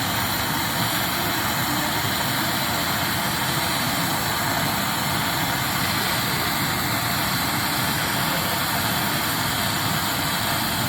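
A machine running steadily, a constant mechanical noise with an even hiss that neither starts, stops nor changes.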